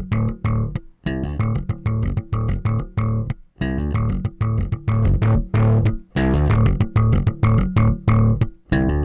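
Recorded music playing back, led by a bass guitar line of short rhythmic plucked notes over sharp regular hits, heard through an analog console-emulation summing plugin.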